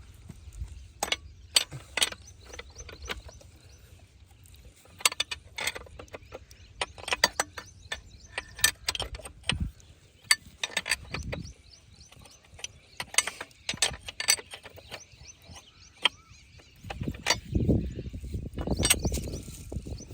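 Irregular sharp metallic clicks and clinks, as of metal parts being handled, with a low rumbling noise near the end.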